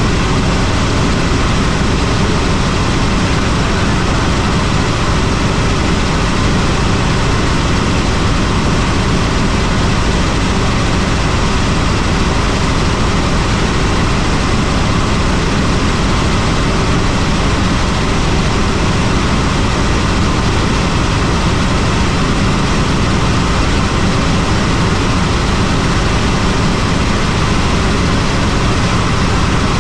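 Helicopter in flight: a steady, loud drone of engine and rotor that does not change.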